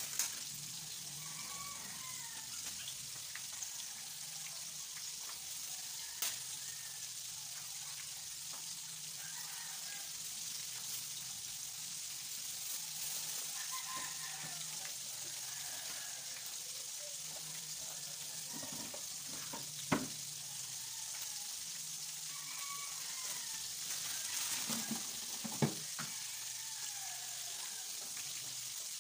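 Breaded chicken pieces deep-frying in hot oil in a pan, a steady sizzle with a few sharp clicks.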